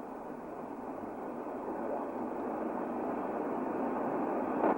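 Jet aircraft engine noise: a steady rushing that slowly grows louder.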